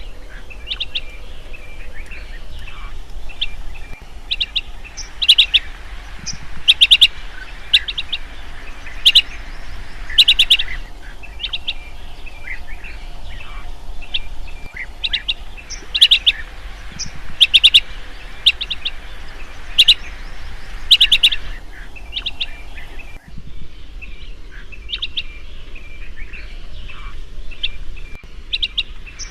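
Chestnut-headed bee-eater calling: short, ringing chirps in quick clusters of three or four, repeated every second or two.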